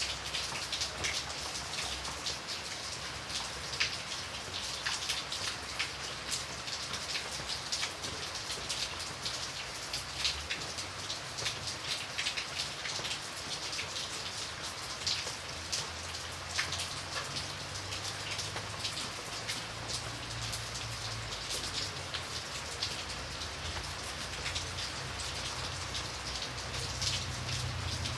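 Steady rain, with many close, sharp raindrops hitting a window over an even hiss.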